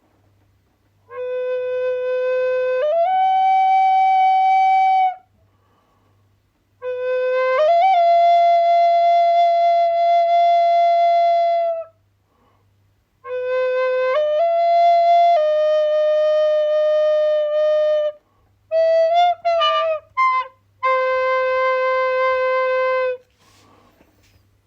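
Solo flute playing slow phrases of long held notes with short pauses between them. Several phrases slide up a step from the opening note partway through. Near the end a quick run of short notes comes before a final held low note.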